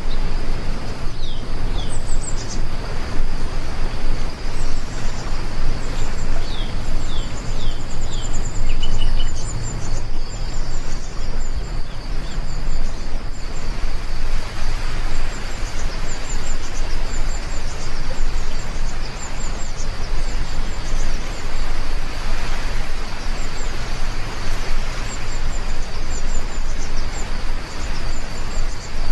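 Steady heavy rain with a low rumble underneath, while birds chirp in short repeated calls throughout, over a faint steady high-pitched tone.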